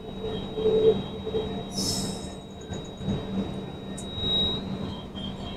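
Passenger express train pulling slowly out of a station, its coach and wheels rumbling steadily, heard at the open coach door, with a brief high-pitched noise about two seconds in.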